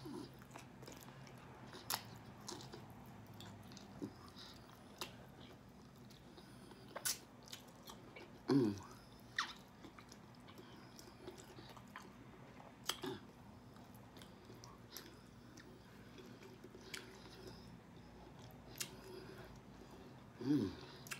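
Close-up chewing and biting of sauced chicken wings, with wet mouth clicks and smacks scattered throughout. Twice a short vocal sound falls in pitch.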